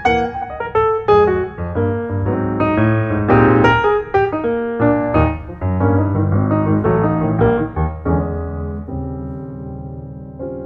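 Background piano music, notes played in quick succession, fading and dying away near the end.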